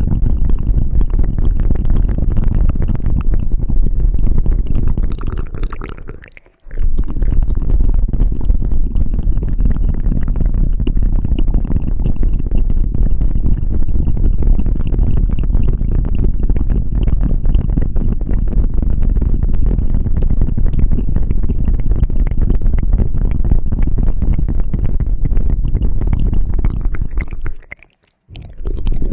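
Close-miked ASMR ear-cleaning sounds: dense, continuous rubbing and crackling right on the microphone, with a deep muffled rumble. The sound stops briefly twice, about six seconds in and near the end.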